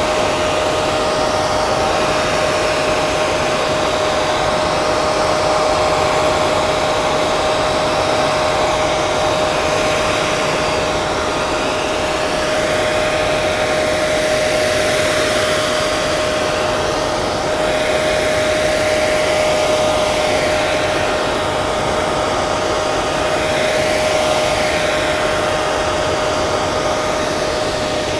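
Hair dryer running steadily: a continuous rush of air with a steady motor hum, the airflow swirling slowly in the higher range.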